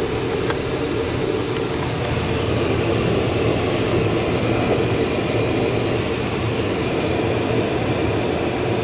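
Steady road and tyre noise inside the cabin of a moving Tesla Model S electric car, an even rush with no engine note.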